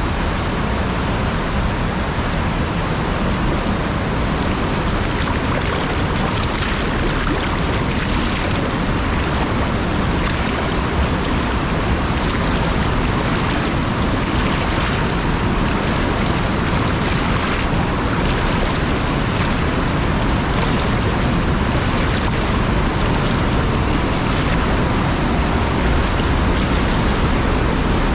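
Fast-flowing river water rushing steadily: a strong current running through a deep stretch of the river.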